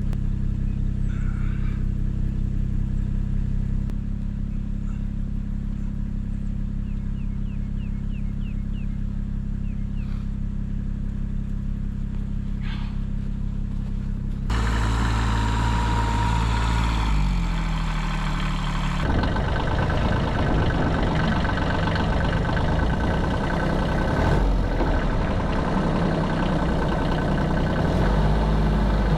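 1978 Kubota B6100 14 hp diesel tractor engine running steadily at low speed, then from about halfway through louder and rougher, its pitch shifting as the tractor works to pull a stuck car out of deep snow.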